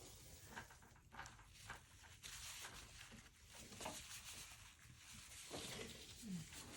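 Faint scratchy brushing from a paintbrush stroking watercolor paper, with a few light ticks, busiest through the middle.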